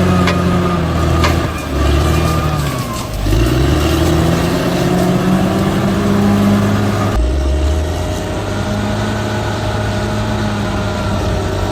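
Heavy earthmoving machine's diesel engine running under load. The revs sag briefly and climb again about three seconds in, with a couple of sharp metallic clanks near the start. The engine sound changes abruptly about seven seconds in and then holds steady.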